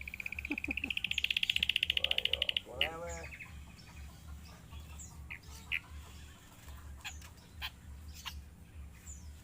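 Drongo calls: a loud, rapid trill rising in pitch for about two and a half seconds, then a short lower call, then scattered short high chirps. A low throbbing hum runs underneath.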